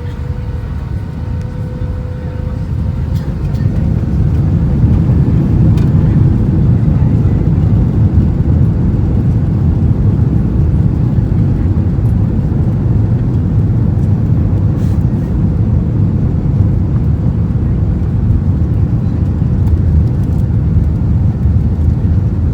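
Jet airliner heard from inside the cabin during takeoff: a faint engine whine fades near the start while a loud, deep rumble builds over the first few seconds and then runs steady as the plane accelerates down the runway.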